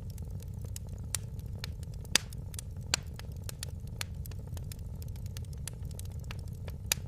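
Fire in a fireplace crackling: irregular sharp pops and snaps over a steady low rumble, with the loudest pop about two seconds in.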